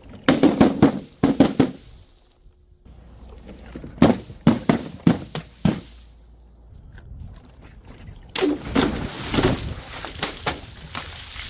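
Crunching and cracking as objects are crushed: three bouts of quick, sharp crackles and snaps, with short pauses between them.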